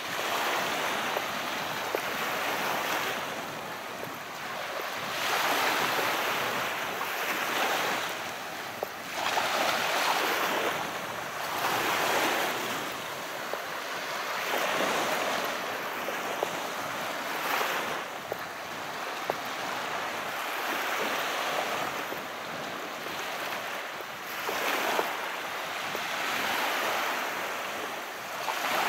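Calm sea waves washing in, the surf swelling and easing in a slow rhythm, a surge roughly every two to three seconds.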